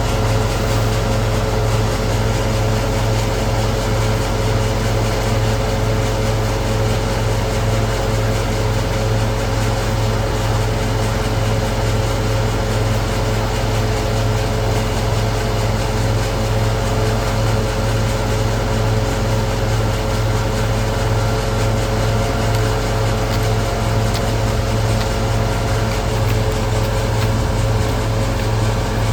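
Engine-driven hazelnut threshing machine (patoz) running steadily, with a loud, even low hum and a few constant tones.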